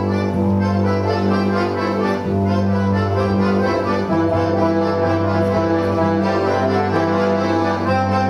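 Accordion orchestra playing a Christmas medley: many accordions together in sustained chords over held bass notes that change every second or two.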